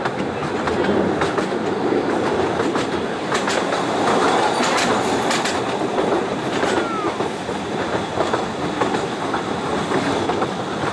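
Ravenglass & Eskdale Railway's 15-inch-gauge train running with a steady rumble and wheels clicking over the rail joints, with a brief squeal about seven seconds in.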